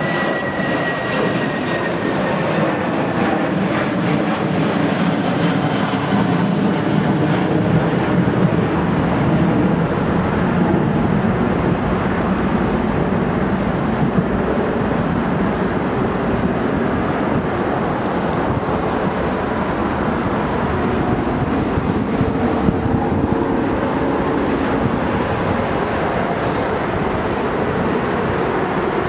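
Jet airliner engines, a loud steady roar throughout, with a high whine falling slowly in pitch over the first few seconds.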